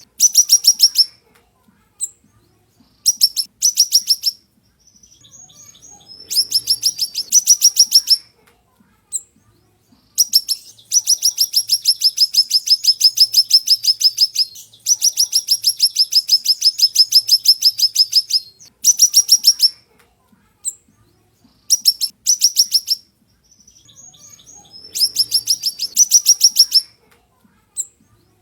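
Siri-siri songbird singing: rapid trains of sharp, high notes, about ten a second, in bursts of one to four seconds with short pauses between them, including two long runs in the middle.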